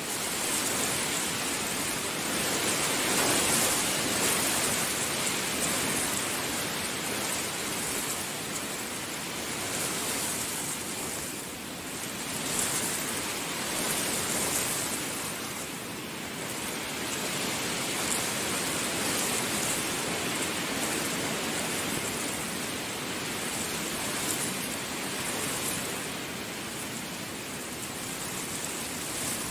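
Heavy rain falling steadily, a dense hiss that swells and eases in waves every few seconds.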